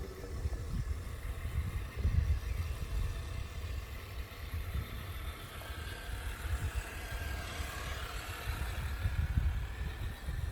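Absima Sherpa RC scale crawler driving: a faint electric motor whine rising and falling in pitch in the second half, over a low, uneven rumble.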